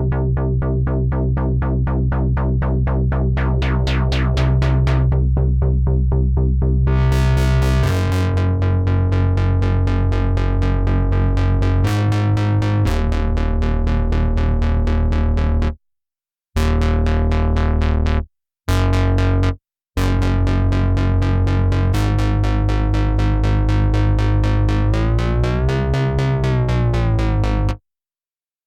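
Cherry Audio P10 software polysynth, an emulation of an analog polysynth, playing an arpeggiated preset: fast repeating notes over held bass notes that change every few seconds. It stops abruptly a few times in the middle, bends in pitch near the end and then cuts off.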